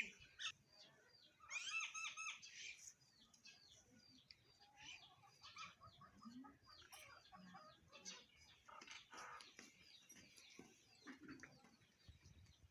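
Sparrows chirping: a flock giving many short, quick chirps, faint, with a louder run of chirps about two seconds in.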